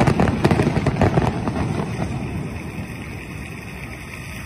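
Fireworks going off in a quick string of bangs and crackles that thin out after about a second and a half, leaving a low rumble that slowly fades.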